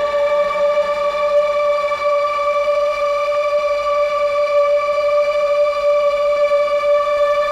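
SxLab Fortress synthesizer holding one steady note rich in overtones, with a higher overtone coming in near the end.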